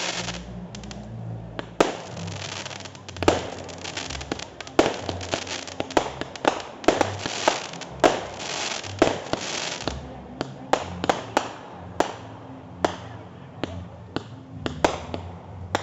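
Fireworks display: a rapid string of bangs from shells bursting, with dense crackling between them, thinning to separate single bangs about two-thirds of the way through.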